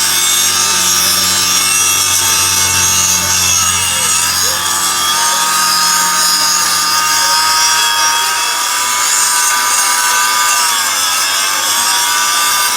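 A workshop power tool or machine tool running steadily and loudly, its pitch dipping briefly twice as it bogs under load while cutting.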